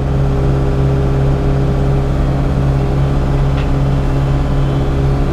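Yanmar SV100-2A excavator's diesel engine running steadily, heard from inside the operator's cab as an even, unchanging hum.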